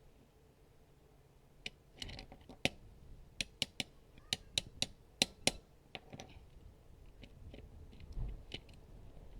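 An irregular series of sharp clicks and taps, about a dozen over four seconds, with a faint low bump near the end.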